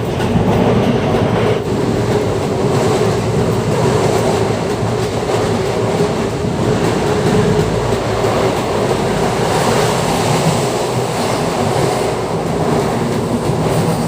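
Passenger train running on the rails: a steady rumble of wheels and carriages with a constant low hum.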